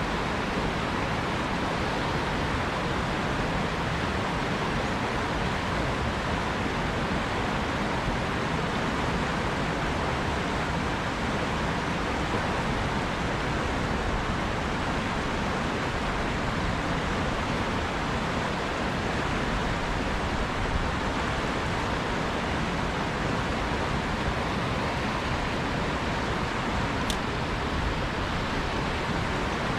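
Steady rushing of a fast-flowing river, with one faint tick near the end.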